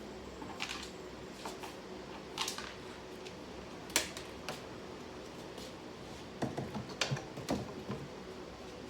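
Scattered light clicks and knocks of small objects being handled and set down. The sharpest comes about four seconds in and a quick cluster of knocks follows near the end, over a steady low hum.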